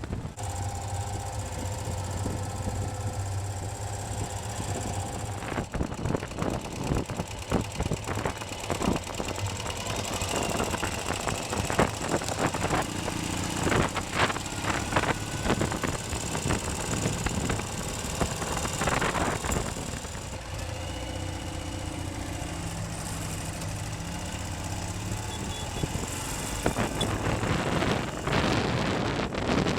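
Ural sidecar motorcycle's flat-twin engine running while riding, its pitch stepping up and down with the throttle and gear changes.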